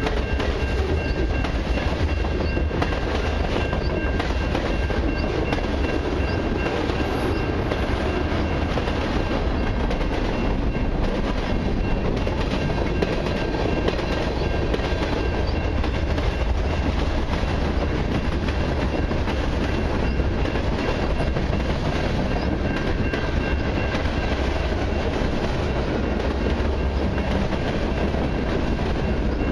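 Freight train cars rolling past at speed: a steady rumble of steel wheels on rail with rapid clicking from the wheels, and a faint steady high tone above it.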